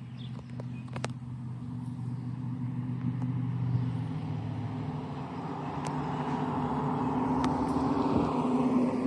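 A motor vehicle's engine hum, growing steadily louder and rising in pitch until near the end, as it draws close.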